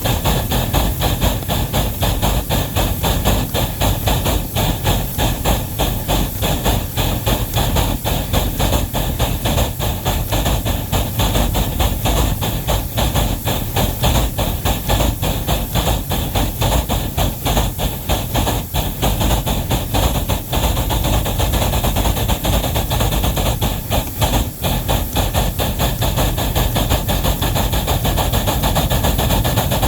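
Wabash No. 713 steam locomotive working under a heavy train: a rapid, steady run of exhaust chuffs over a constant steam hiss.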